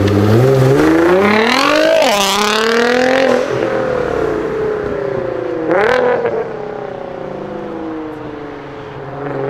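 Nissan GT-R R35's twin-turbo V6 engine revving hard: its note climbs steeply for about two seconds, drops, then sinks slowly, with a short sharp rev blip about six seconds in.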